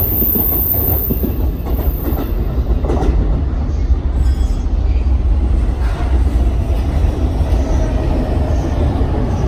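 Train running through the station, a continuous heavy rumble from its wheels on the track.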